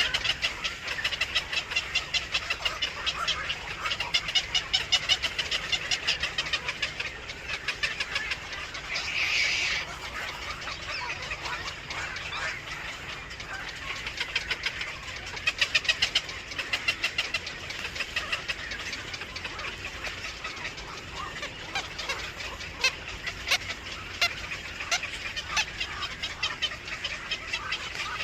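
Baby birds cheeping in a rapid, continuous stream of short high calls, with one louder drawn-out call about nine seconds in.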